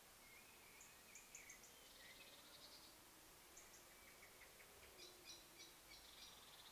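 Faint woodland birdsong over a steady hiss: short high chirps and buzzy trills from more than one bird, with a trill about two seconds in and another group of trills around five seconds in.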